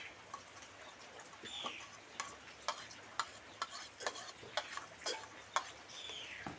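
Eating utensils clicking and tapping against a dish, irregular light clicks about one or two a second. Two brief falling squeaks are also heard, about a second and a half in and near the end.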